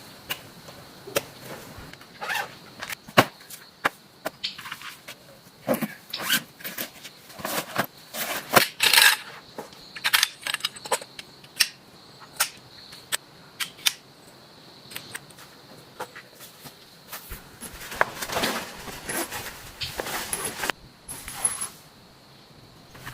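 Irregular sharp clicks, knocks and light clatters of hard objects being handled, thickest in the middle and again near the end, over a faint steady high-pitched tone.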